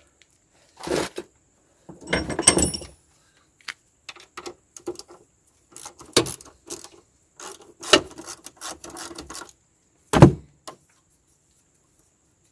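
Irregular knocks, clicks and rattles of parts being handled and fitted into an excavator cab's air-conditioning blower unit, with a sharper knock about ten seconds in.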